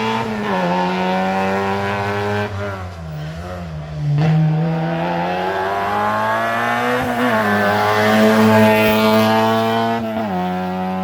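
Rally car engine pulling hard through the gears, its pitch climbing and dropping sharply at upshifts about half a second in, about seven seconds in and near the end. Around three seconds the note dips and wavers as the throttle eases, then it gets louder and pulls again.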